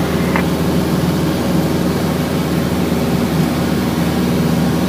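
Aircraft engine droning steadily: a constant low hum made of several steady tones over a rushing hiss.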